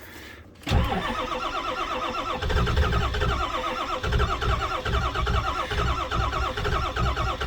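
Starter motor cranking a cold-soaked 7.3 L Power Stroke V8 diesel with a steady rhythmic chug. It starts about a second in, gets louder a couple of seconds later, and the engine does not fire: at 7 °F with the block heater unplugged it will not start.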